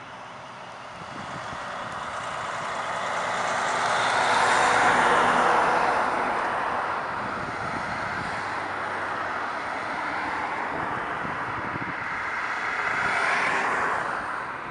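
Rushing noise of road traffic, swelling as a vehicle passes about five seconds in and again near the end.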